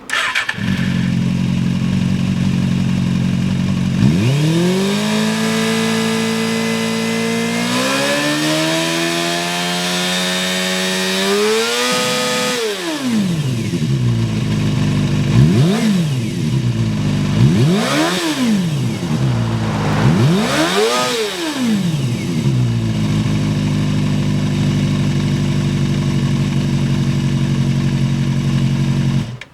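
Suzuki GSX250S Katana's inline-four engine through a Yoshimura aftermarket exhaust. It idles, is raised to a held higher speed in two steps, climbs to a peak about twelve seconds in and drops back, then gets three quick throttle blips before settling back to idle. The sound cuts off suddenly near the end.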